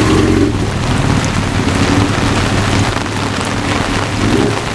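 Steady rain falling and splashing on surfaces, with a low rumble underneath.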